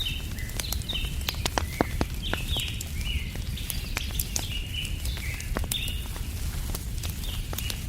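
Wood fire crackling, with many sharp pops over a low steady rumble, while a bird calls over and over in short repeated notes.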